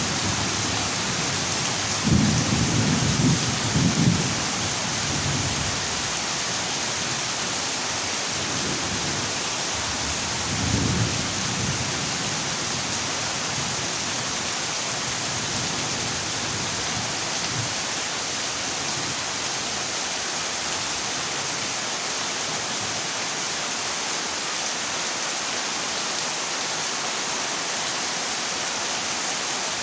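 Heavy rain falling steadily on a corrugated zinc roof. Low rolls of thunder rumble from about two to four seconds in and again briefly around eleven seconds.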